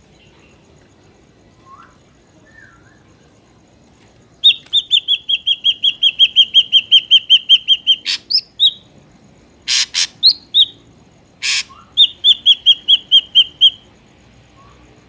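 Ashy drongo calls: a fast run of repeated high clear notes, about six a second for some three seconds, then a few short harsh rasping notes, and a second shorter run of repeated notes near the end.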